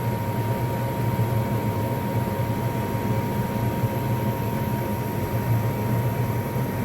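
Lennox gas furnace running with its burners lit: a steady low hum and rush from the draft inducer fan and flames, with a faint steady whine. The burners staying lit shows that the cleaned flame sensor now proves the flame.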